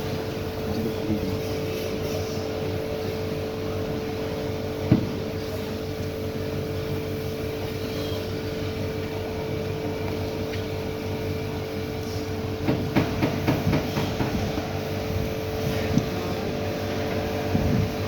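A steady mechanical hum from a running machine, with a single sharp knock about five seconds in and a run of clicks and knocks later on, like tools or parts being handled.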